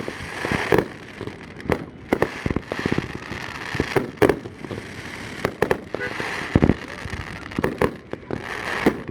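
Fireworks display: many sharp bangs in quick, irregular succession, with crackling in between.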